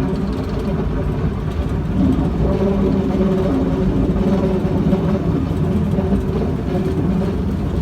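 Vintage excursion train running, a steady low rumble with an even engine drone.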